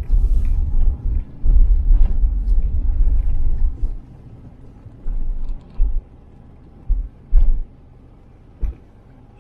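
Low rumble of a car on the move, heavy for the first four seconds or so, then dropping to a quieter bed broken by a few short low thumps.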